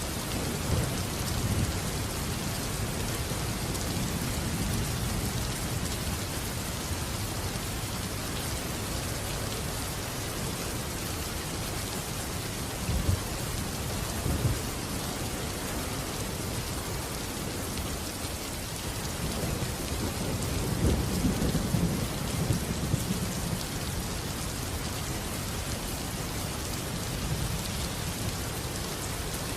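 Steady rain with thunder rumbling under it: a rumble at the start, two short low cracks near the middle, and a longer rolling rumble about two-thirds of the way through.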